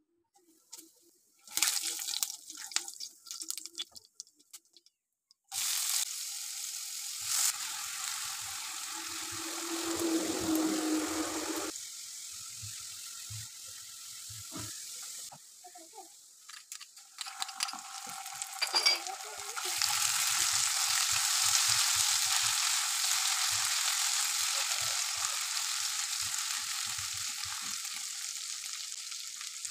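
Spice seeds crackling in hot oil in a nonstick frying pan, then chopped onions sizzling steadily in the oil as a spatula stirs them. The sizzle grows louder and fuller about two-thirds of the way in.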